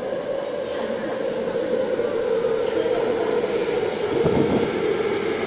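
MTR Ma On Shan Line electric train pulling into the station, its running noise steadily growing louder as the carriages come alongside, with a low thump about four seconds in.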